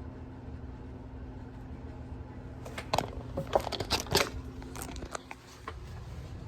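A steady low hum, with a burst of rustling and clicking handling noises through the middle.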